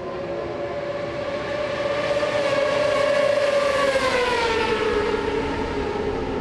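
Superbike racing motorcycle engine running at high revs. It grows louder, then its pitch falls about two-thirds of the way through as it goes by.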